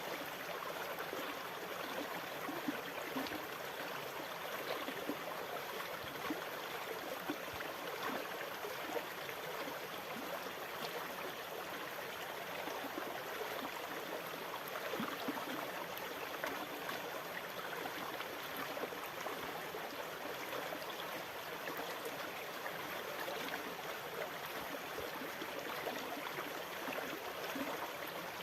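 Steady flowing water, trickling and gurgling evenly with no rise and fall of breaking waves.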